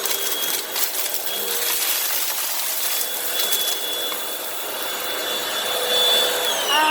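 Hoover WindTunnel High Capacity Pet upright vacuum running with a steady whine as it sucks up dirt and shredded debris, which crackles and rattles through it. Near the end the motor's whine starts to fall in pitch as it winds down.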